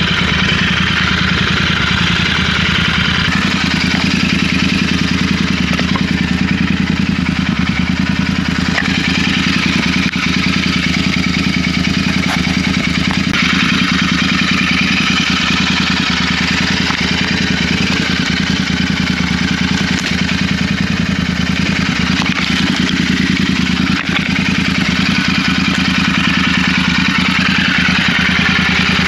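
Motorcycle engine running steadily at an even speed, with a constant low hum and a rush of noise above it.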